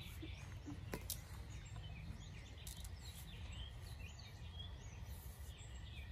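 Small birds chirping repeatedly over a steady low outdoor rumble, with one sharp click about a second in.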